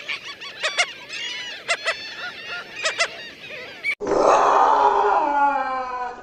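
Animal calls: for about four seconds, many quick high chirps with a few sharp clicks, then a sudden cut to a louder, rough call that slides down in pitch.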